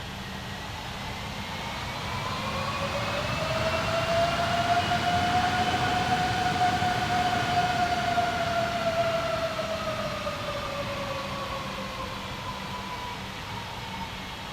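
Jet airliner engines passing by: a whine with several overtones swells, peaks mid-way with its pitch bending slightly up and then down, and fades toward the end over a steady low rumble.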